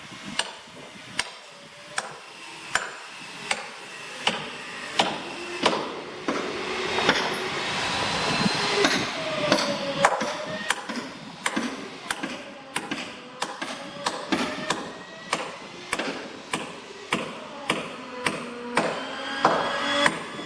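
Hammer blows on wood in an even, repeated rhythm, a little over one strike a second and quickening near the end, as planks of a wooden fishing boat are fastened.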